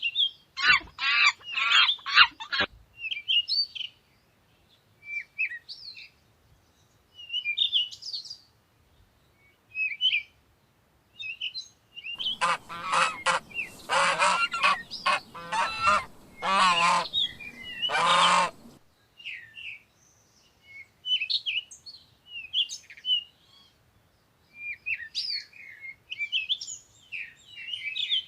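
Small birds chirping on and off throughout, with two bouts of loud, rapidly repeated calls from a larger bird: a short one at the start and a longer one of about six seconds starting around 12 seconds in.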